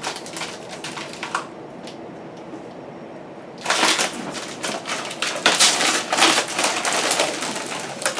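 Protective plastic film being peeled off a stainless steel appliance door, crackling as it pulls away from the steel. A few separate crackles at first, then from about halfway a dense, continuous crackle as a long strip is pulled across. The film is aged and clings hard to the steel.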